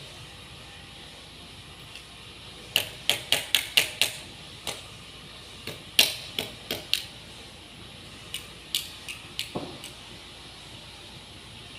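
A light switch clicking sharply, a quick run of about six clicks a little under three seconds in, then scattered single clicks.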